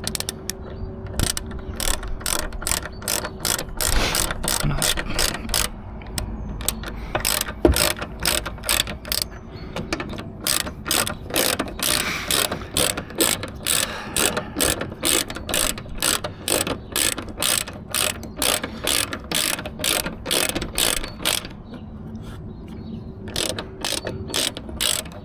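Hand ratchet wrench clicking in a steady rhythm, about three clicks a second, as bolts are run in, with a short pause near the end.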